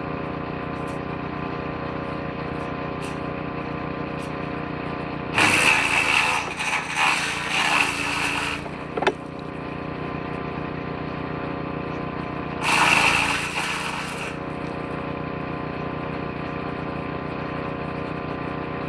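Woodchipper-shredder engine running steadily, with two loud bursts of chipping as branches are fed into the shredder drum: one about five seconds in lasting about three seconds, a shorter one near thirteen seconds.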